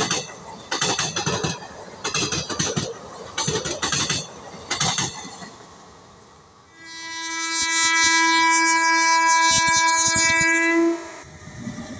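Wheels of passing passenger coaches clattering over rail joints in paired beats. About seven seconds in, an approaching electric locomotive sounds its horn in one long steady blast lasting about four seconds.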